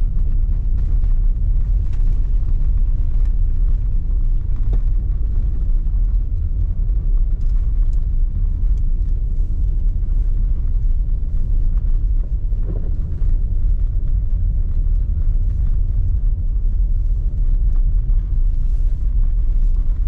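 A car driving: a steady low rumble of engine and tyre noise on the road, with faint scattered ticks.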